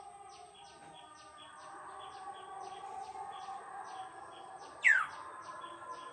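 Birds calling: a steady run of short high chirps, about three a second, and one loud call sweeping sharply downward in pitch about five seconds in.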